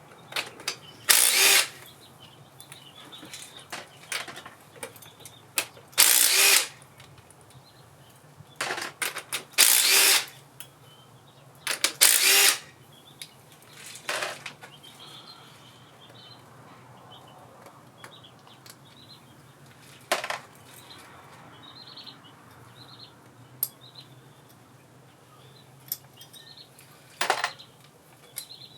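A small power tool run in short bursts against bolts that are stuck: about seven bursts of a second or less each, with pauses between, over a faint steady low hum.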